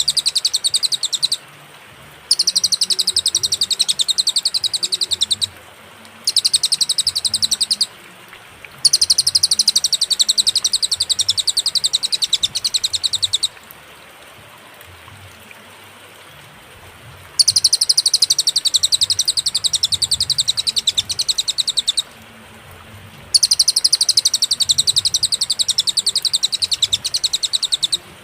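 Cililin songbird singing loud, very rapid high trills in bouts of a few seconds, each broken off by a short pause. Six bouts are heard, with the longest gap about halfway through.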